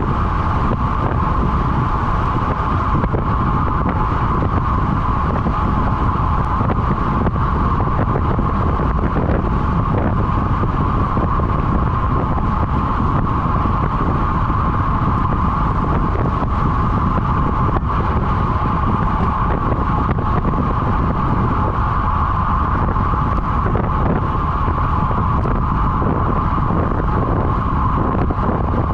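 Wind rushing over the microphone of a road bike ridden at speed, a steady low rumble with a constant high-pitched whine over it.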